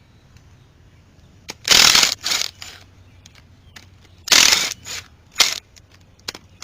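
A hand ratchet with a 3/8 socket loosening the cover bolts on a Polaris Ranger transmission, heard as several short bursts of ratcheting with pauses between them.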